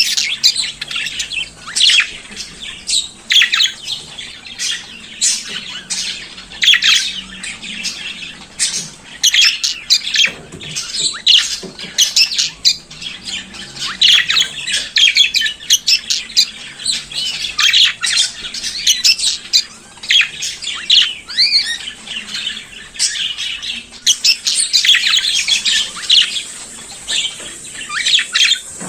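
Budgerigars chattering and warbling without a break: a dense mix of fast chirps, squawks and whistled notes.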